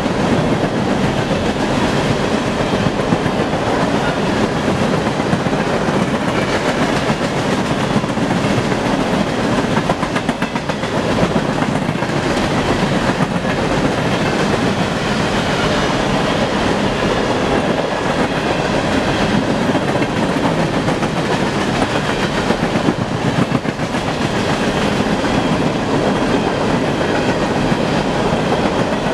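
Freight train of open-top steel hopper cars rolling past at speed: a steady, loud rumble of steel wheels on the rails with fast clickety-clack.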